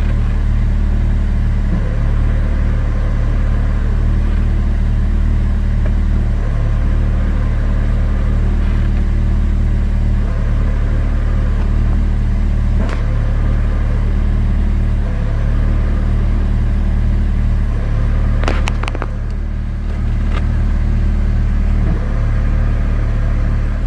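Isuzu Hombre pickup engine idling steadily with the clutch engaged, with a few faint clicks about halfway and again near the end.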